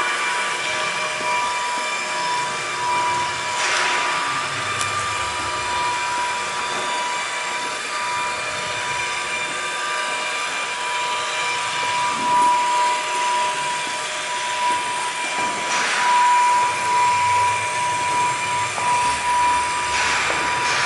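A steady mechanical roar with a constant high whine, broken by a few sharp knocks.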